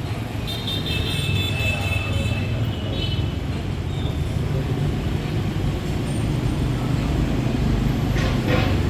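Street traffic: vehicle engines running in a steady low rumble, with a high steady tone sounding from about half a second to three seconds in and a short hiss near the end.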